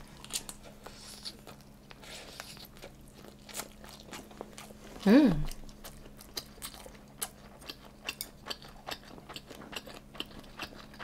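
Close-up chewing of soy-sauce-marinated raw shrimp sushi: many small wet mouth clicks, with a brief hum about five seconds in.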